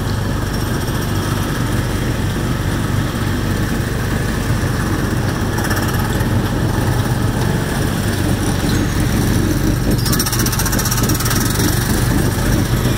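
Small gasoline engine of an amusement-park speedway ride car running steadily under way, a constant low drone with the pedal held down at the car's top speed. About ten seconds in, a buzzy rattle joins for a couple of seconds.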